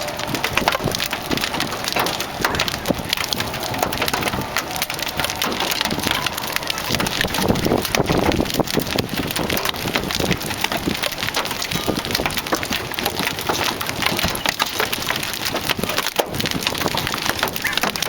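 Large hailstones, about golf-ball size, pelting down in a dense, continuous clatter of sharp hits.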